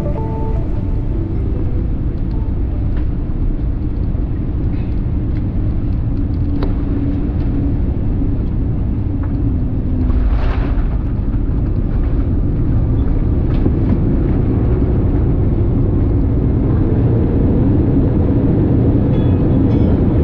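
Steady low rumble of a Boeing 787-9 airliner heard inside the cabin as it lands, growing gradually louder toward the end, with one short hiss about halfway through.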